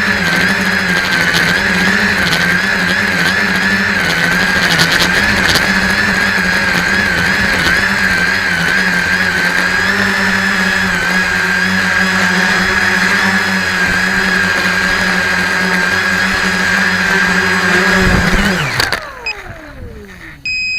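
Tricopter's electric motors and propellers whining steadily, the pitch wavering slightly as the throttle is worked. A little after eighteen seconds in, the motors spin down with a falling whine and stop, followed by a short electronic beep.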